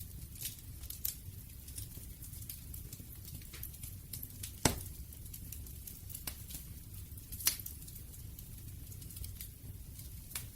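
Campfire burning with a low steady rumble and scattered sharp crackles and pops, two louder pops about four and a half and seven and a half seconds in.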